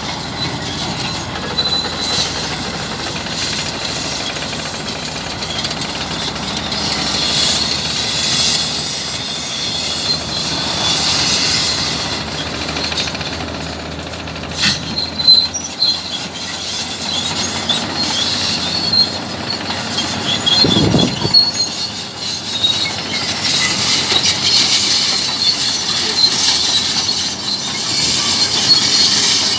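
Bulldozer working, its steel crawler tracks squealing with a high, wavering tone over a steady mechanical noise, with a single sharp knock about halfway through.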